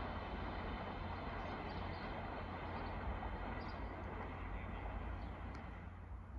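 Train running through the station, a steady rumble with a faint steady whine above it, fading away near the end as it moves off.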